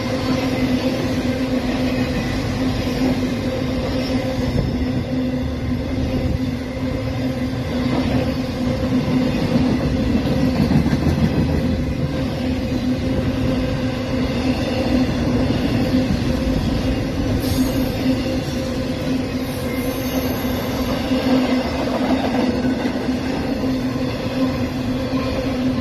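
Intermodal freight train's cars rolling past at speed: a steady rumble of wheels on rail, with a constant humming tone underneath.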